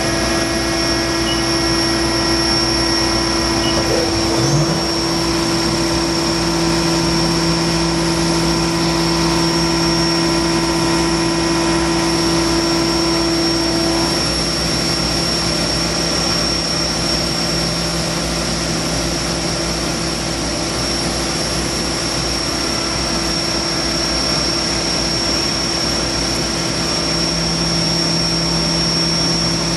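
Haas VF-2SS CNC vertical machining center running under power: a steady mechanical hum and whine made of several constant tones. A low tone comes in about five seconds in.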